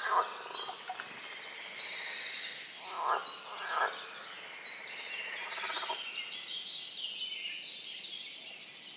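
Several songbirds singing over one another in a wetland forest, with many short high trills and repeated phrases. A few short, lower calls stand out, one at the start and others about three, four and six seconds in.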